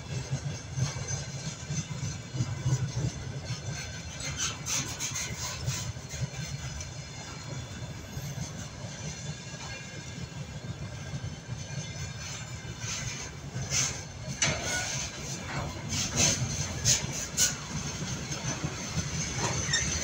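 A freight train's wagons (flatcars, container cars and covered hopper cars) rolling past on the rails with a steady low rumble. Sharper metallic wheel-and-rail noises come now and then, most often in the second half.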